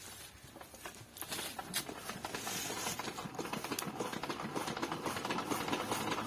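Old Petter diesel engine being cranked by hand: a run of quick mechanical clicks and rattles that gets steadily louder and denser as it builds toward firing.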